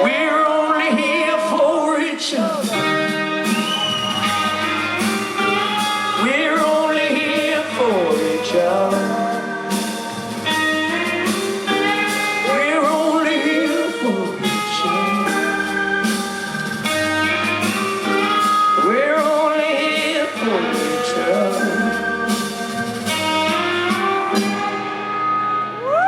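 Rock band playing live at full volume: electric guitars and bass, with a sung melody line gliding over the top and regular drum hits, as the song winds down to its close.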